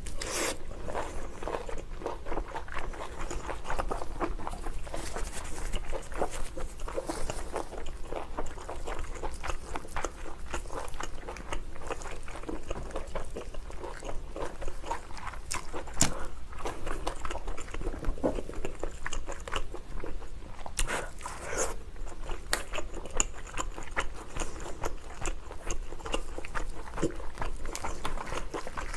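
Close-miked eating of lobster: steady chewing and biting with many small wet clicks and crunches.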